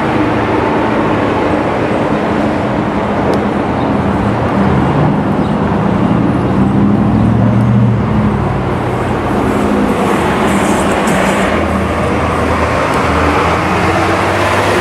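Freight train passing, its diesel locomotives' engines running with a steady low hum under the noisy rumble of the train.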